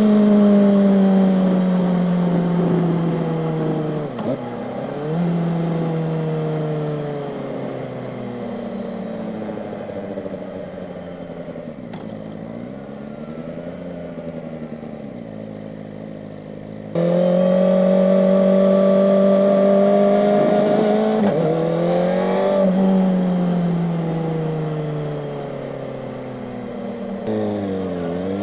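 Kawasaki ZX-4RR's inline-four engine at high revs, the pitch slowly falling as it eases off, with quick sharp throttle blips about four seconds in, about 22 seconds in and near the end. The sound steps up suddenly in loudness about 17 seconds in.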